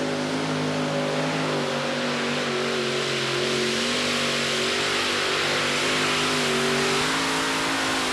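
Methanol-burning competition pulling tractor running flat out during a pull, its engine note holding at a high steady pitch over a heavy exhaust rush, wavering slightly and dipping then lifting again near the end.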